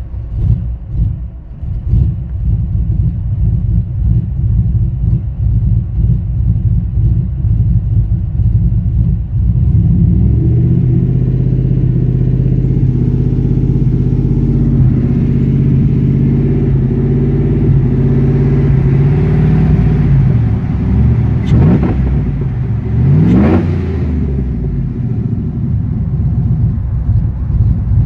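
Swapped 5.3 L V8 with a TSP 212/218 .600-lift cam, running with a rough, uneven idle. About ten seconds in it is held at a steady, higher speed for around ten seconds, then drops back. A quick rev rises and falls a couple of seconds later, and then the rough idle returns.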